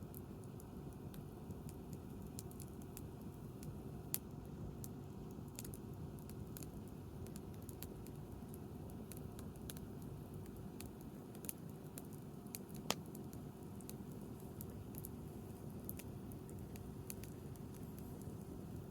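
Wood campfire crackling: irregular small snaps and ticks over a steady low background noise, with two louder pops, one about four seconds in and one about thirteen seconds in.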